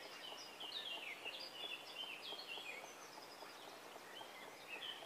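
Songbirds singing faintly: a steady run of quick, high chirps and short gliding whistled notes.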